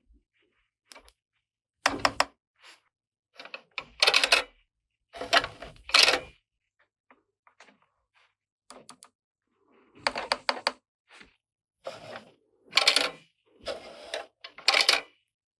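Small plastic toy pieces being handled, unpacked and set down: a series of clicks, taps and rustling clatters with short quiet gaps between them.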